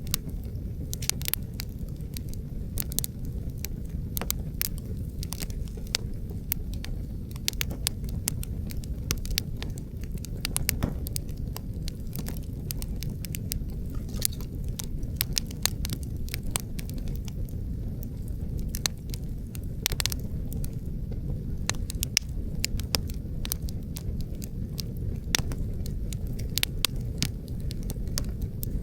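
Wood fire crackling, with frequent sharp irregular pops from the burning logs, over a steady low rumble of wind.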